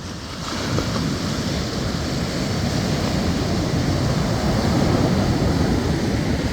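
Ocean surf washing up the beach, mixed with wind on the microphone: a steady rushing noise that swells about a second in and then holds.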